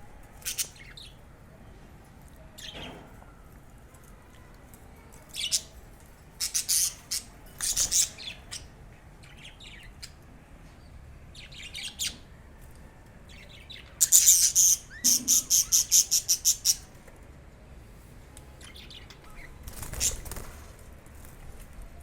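Budgerigars chirping and squawking in short, sharp, high-pitched bursts, with a quick run of about ten chirps about fifteen seconds in.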